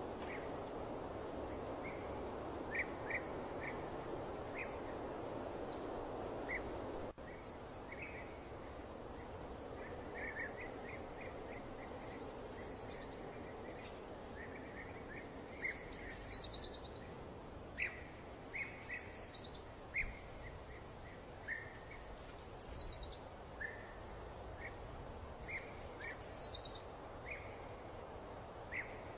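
Songbirds chirping over a steady background rush. Short chirps run throughout, and from about twelve seconds in, quick falling high calls repeat every second or two. The background rush drops in level after a brief break about seven seconds in.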